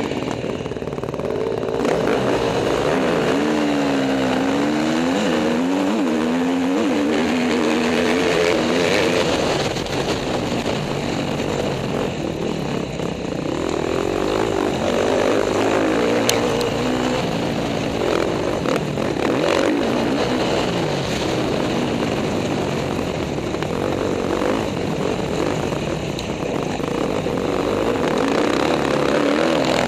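KTM motocross bike engine being ridden hard, its pitch rising and falling again and again as the throttle is opened and closed.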